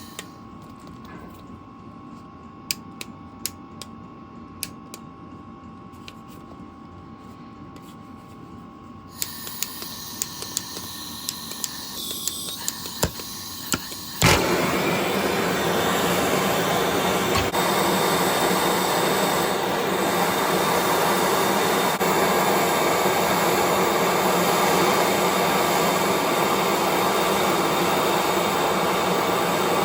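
Gas heating torch being lit. A few sharp clicks come first, then a hiss starts about nine seconds in. About fourteen seconds in the torch catches suddenly and then burns with a loud, steady roar, after what sounded like trouble getting it to light.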